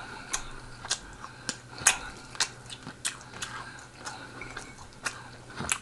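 A person chewing food close to the microphone, with wet smacking clicks about twice a second.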